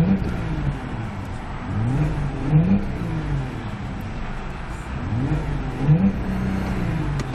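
2003 Volkswagen Touareg's 220-hp V6 revved in park, about three blips that climb and fall back, the last one held briefly at the rev limiter of around 4,000 RPM. Through the dual exhaust it makes a very nice sound.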